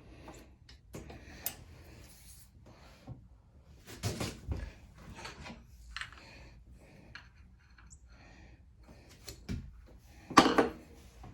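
Small clicks, taps and rattles of hand work on a push mower's carburetor as its throttle linkage is fitted back on, with a louder clunk about four seconds in and the loudest knock near the end.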